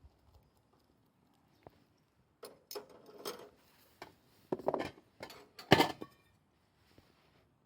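Cookware being handled: a run of knocks, clatters and clinks, with the loudest knock about six seconds in.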